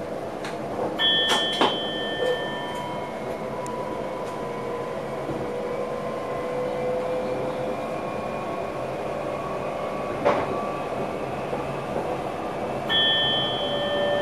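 Electric passenger train heard from the driver's cab while under way: a steady running noise with a motor whine that slowly rises in pitch as the train gathers speed, and a couple of sharp knocks. A short high electronic tone sounds twice, about a second in and again near the end.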